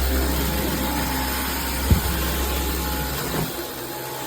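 Dyson V15 Detect cordless stick vacuum running steadily on a rug, with a single bump of the cleaner head about two seconds in.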